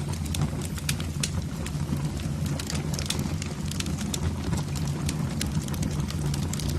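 Wood fire burning in a fireplace: a steady low rumble of the flames with frequent small irregular crackles and pops.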